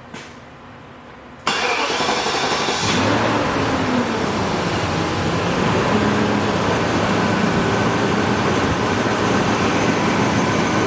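1998 BMW 540i's 4.4-litre V8 starting: about a second and a half in the starter cranks briefly, the engine catches, and its revs flare and then settle to a steady idle. The engine has a cylinder 7 misfire from a voltage drop at a loose injector 7 connector.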